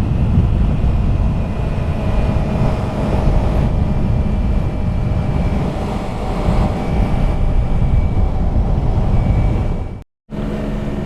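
Yamaha R3 parallel-twin engine running steadily at riding speed under heavy wind noise on the microphone. The sound cuts out briefly near the end, then picks up again with a steadier engine hum.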